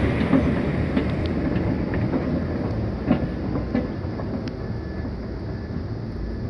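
Low rumble of a freight train fading steadily as it recedes, with a few sharp rail clicks and ticks scattered through it.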